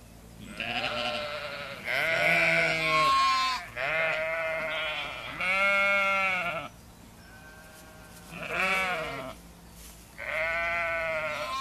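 Sheep bleating: a string of about six long baa calls at different pitches from several animals, with short pauses between them.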